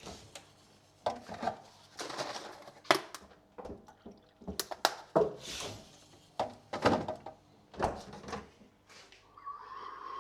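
Scattered light clicks, knocks and rustles of a coffee cup and food containers being handled while eating, then a longer hissing rush of about two seconds near the end.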